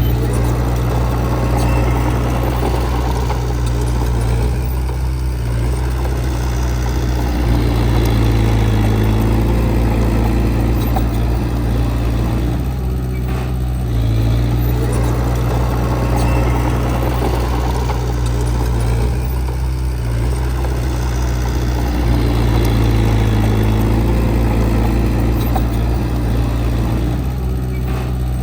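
Heavy diesel engine of earthmoving equipment running continuously, its load and pitch swelling and easing several times.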